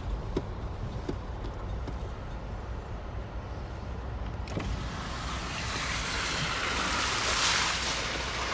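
Jeep driving: a steady low rumble with a few light clicks. About halfway through, a loud rushing hiss comes in and swells.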